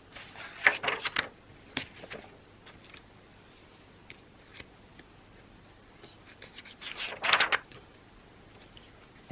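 Pen or pencil writing on paper in short scratchy strokes, a flurry in the first second and another, louder one about seven seconds in, with a few faint taps between.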